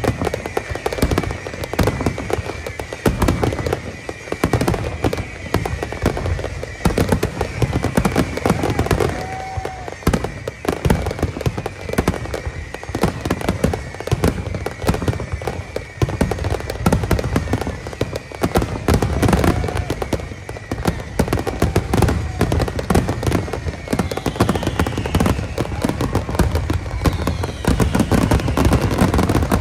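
Fireworks display: a dense, unbroken barrage of bangs and crackling shell bursts, with falling whistles near the end.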